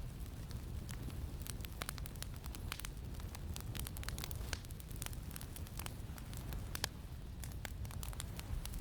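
Campfire crackling with irregular sharp pops and snaps, over a steady low rumble of wind.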